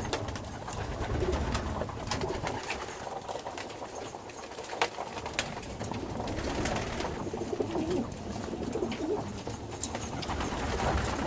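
Racing pigeons cooing, low warbling calls repeated throughout, with a few scattered sharp clicks.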